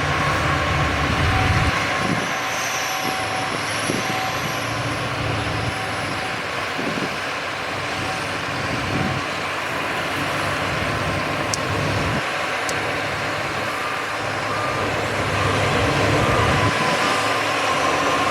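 Heavy diesel earthmoving machinery running steadily, with a reversing alarm beeping on and off; a lower-pitched beeper sounds in the first few seconds and a higher-pitched one near the end.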